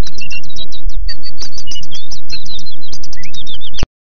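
Birds chirping: a dense run of quick, overlapping high chirps and tweets, loud throughout, cutting off abruptly near the end.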